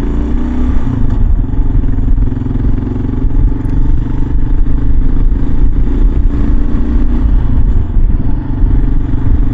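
Kawasaki KLR 650's single-cylinder engine running steadily as the motorcycle is ridden, over a dense low rumble.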